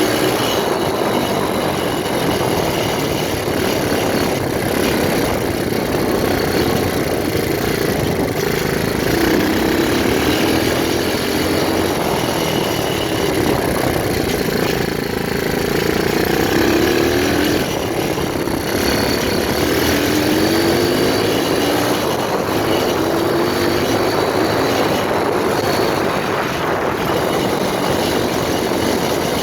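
125cc pit bike engine being ridden hard, its pitch climbing and dropping again and again as it is revved up and backed off, over a steady rushing noise.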